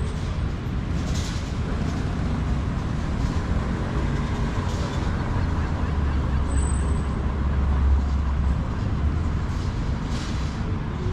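Street traffic: a steady rumble of passing vehicles, with a deeper engine rumble that swells about halfway through and fades a couple of seconds later.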